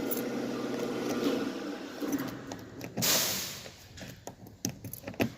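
A car door key being worked in a door lock: small clicks and rattles of key and lock mechanism, with a short rush of noise about three seconds in.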